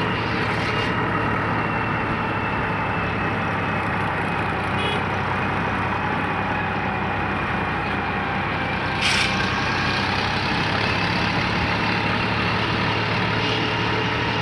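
Deutz-Fahr tractor's diesel engine running steadily, with one short sharp knock or click about nine seconds in.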